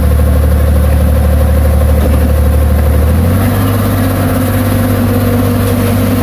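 Heavy diesel engine of earthmoving machinery running steadily under load. About three seconds in, its pitch steps up a little as it revs higher.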